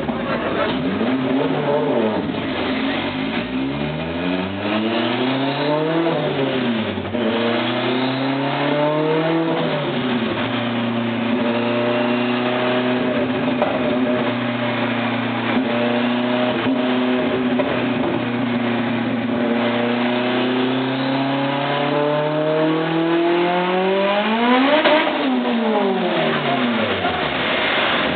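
Honda Civic engine pulling on a chassis dynamometer. The revs climb and drop twice, at about 6 and 9 seconds in as it shifts up, then hold steady for about ten seconds. They climb again to a peak about 25 seconds in and fall off as the run ends.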